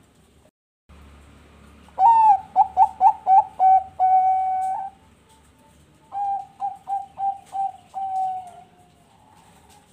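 Zebra dove (Thai-bred perkutut bangkok) cooing song: two phrases, each a quick run of short staccato coos ending in a long held note. The second phrase is quieter.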